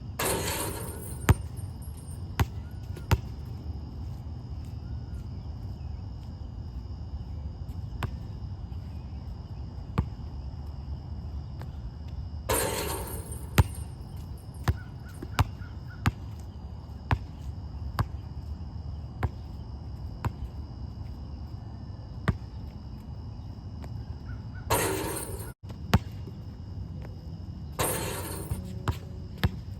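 Basketball shooting workout on an outdoor court: the ball bouncing with sharp smacks a second or so apart, and four short rushing, rattling bursts as shots hit the rim or net. Crickets chirr steadily behind.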